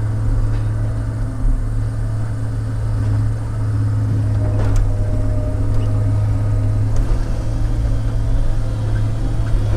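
Diesel engine of a log loader running steadily while it swings and loads logs, with a faint whine through the middle and a few sharp knocks.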